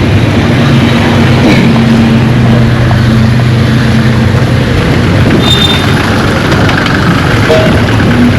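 Vehicle engine running steadily: a low hum under constant noise.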